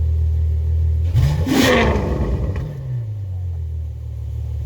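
Supercar engine revved once in a quick blip about a second in, its pitch rising sharply and then falling back to a steady low idle.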